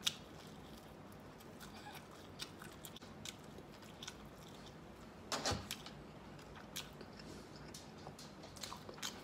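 Faint close-up chewing of crunchy fried chicken, with scattered small crunches and mouth smacks and one louder bite about five and a half seconds in.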